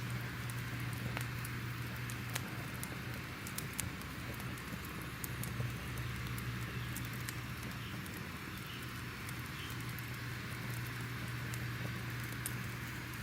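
Crackling fire: an even hiss with frequent sharp, irregular pops and snaps, over a low steady hum.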